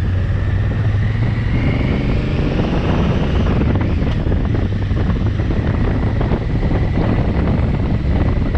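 Motorcycle engine running while riding, with heavy wind rumble on the microphone. A faint whine rises in pitch over the first few seconds.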